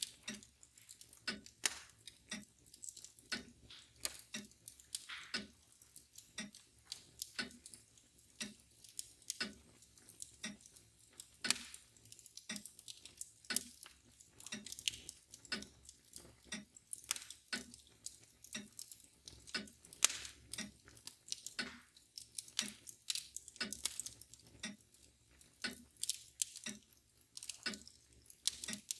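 Wood fire crackling with irregular sharp pops, over the steady ticking of a mantel clock.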